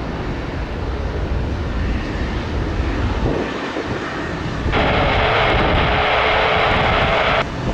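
Airbus A330-900 airliner's Rolls-Royce Trent 7000 jet engines, heard as a steady rumble. About two-thirds of the way in, a band of hiss comes in for nearly three seconds and cuts off suddenly.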